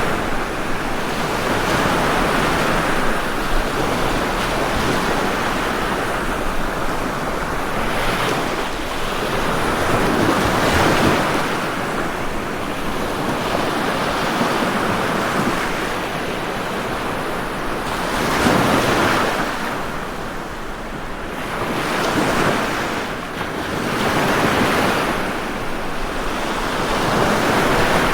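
Ocean surf: waves breaking and washing ashore in a steady rushing hiss that swells and eases every few seconds, with the strongest surges near the middle and near the end.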